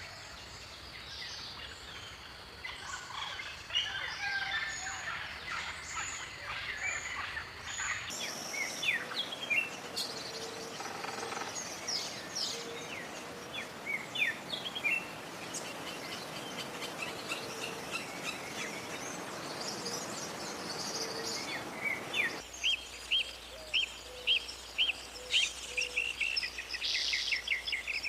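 Several wild birds singing and calling with many short high chirps and whistles. Near the end one bird gives a run of evenly repeated notes that runs into a fast trill.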